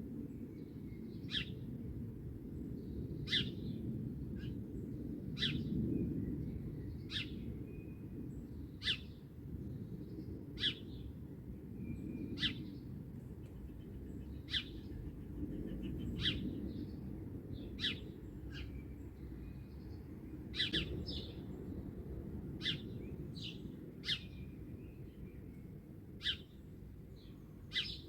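Songbirds calling at dawn. One bird repeats a short, sharp call about every two seconds, with fainter chirps from other birds between its calls. A steady low rumble runs underneath.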